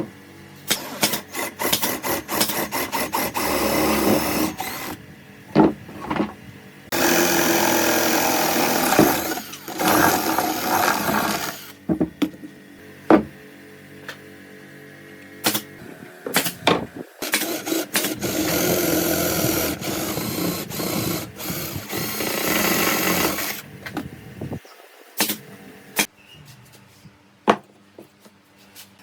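A power tool running in three bursts of a few seconds each, with short knocks and clicks of workpiece handling in between.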